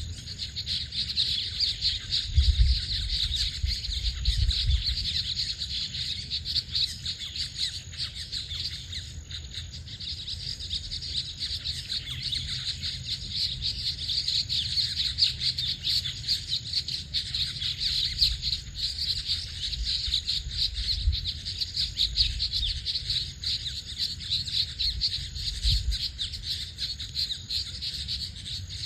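A dense, continuous chorus of many small birds chirping and twittering together, with low rumbles now and then underneath.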